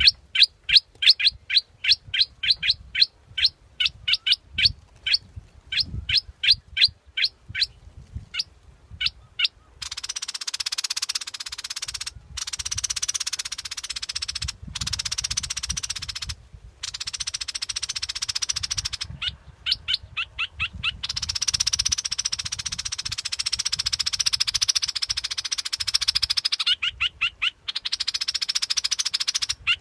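A bulbul lure call: quick chirps repeated about three times a second for the first ten seconds, then a long, rapid buzzy trill broken by a few short pauses, with chirps again near the end.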